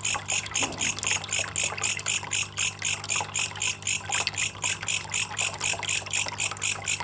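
Belalang kecek katydid calling in a fast, even series of high chirps, about four to five a second, over a steady low hum; it cuts off suddenly at the end.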